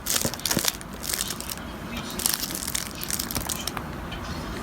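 Irregular crunching and crackling: a quick run of sharp crackles, thickest in the first couple of seconds and thinner after.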